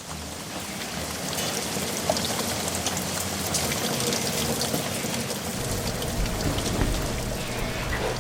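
Steady rain falling, with many separate drops ticking through the hiss; it fades in over the first couple of seconds.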